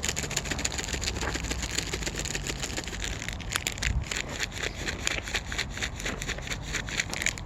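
Dense, irregular crunching and crackling of dry leaves and twigs, several sharp cracks a second.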